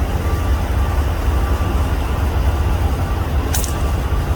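A single shot from a suppressed .22 Brocock PCP air rifle, a short sharp crack about three and a half seconds in, over a steady low rumble.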